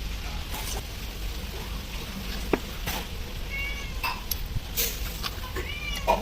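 A cat meowing twice, two short high meows about two seconds apart, with a few sharp clicks in between.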